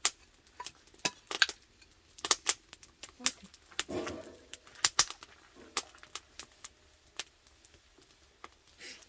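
Wood campfire crackling, with sharp, irregular pops and snaps several times a second from slightly damp firewood.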